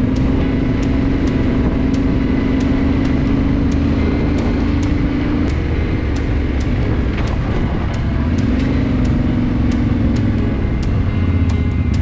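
Motorcycle engine running at road speed under heavy wind rumble on the microphone. The engine note holds steady, drops away about five and a half seconds in and comes back a few seconds later, as with easing off the throttle and opening it again.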